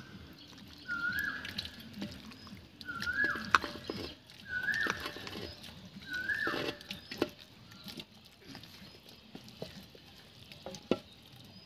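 A bird calling four times, each a short whistled note that flicks up and then falls away, about every one and a half to two seconds. Under it, soft clicks and wet scraping as spiced duck meat is scooped by hand from a steel bowl into a clay pot.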